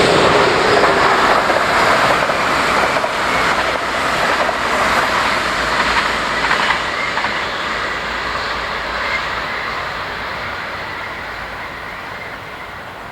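A train passing along the track, loud at first and fading steadily as it moves away.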